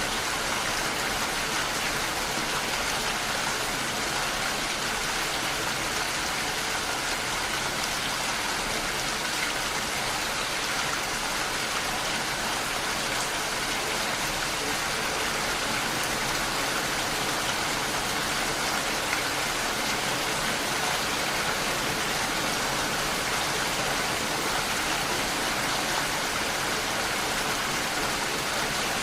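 Steady, even rainfall: a continuous hiss of rain with no let-up or single drops standing out.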